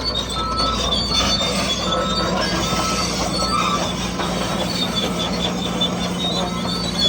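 Bulldozer running with its tracks squealing and screeching over a steady motor hum.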